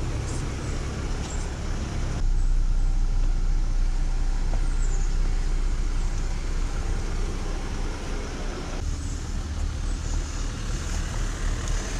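Jeep running at low speed on a rough dirt trail: a steady low engine and drivetrain rumble. Its character changes abruptly about two seconds in and again near nine seconds.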